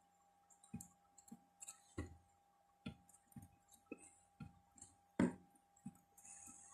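Faint, irregular small clicks and taps of metal tweezers and a soldering iron working at an old capacitor on a circuit board to desolder it, with one louder tap a little past five seconds in.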